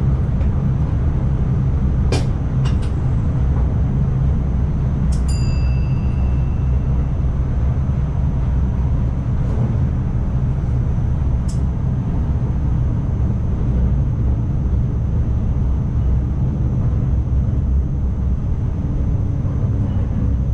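NS ICMm electric multiple unit running along the track, heard from the driver's cab as a steady low rumble. A few short clicks come about two seconds in and again near the middle, and a brief ringing tone sounds about five seconds in.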